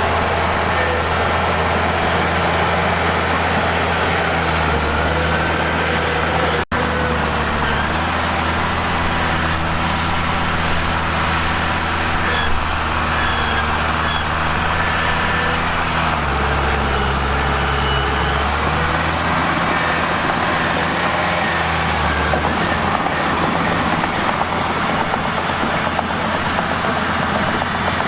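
Mitsubishi bulldozer's diesel engine running steadily, its engine note stepping up and down a few times. It cuts out for an instant about seven seconds in.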